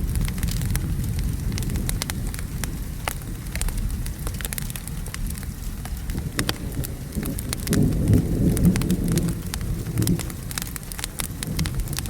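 Rain falling and a low, rolling thunder rumble that swells about eight seconds in, with the scattered sharp pops and crackles of a burning wood fire over it.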